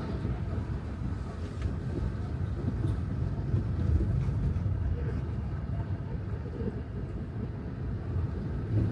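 Tesla Model 3 driving on wet pavement: a steady low rumble of tyre and road noise.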